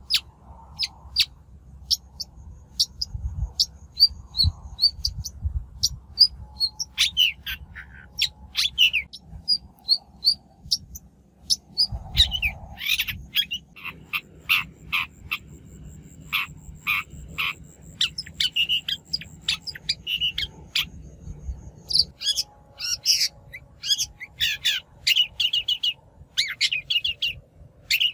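Long-tailed shrike lure-call recording: quick runs of sharp, scratchy notes, thicker and faster from about halfway through.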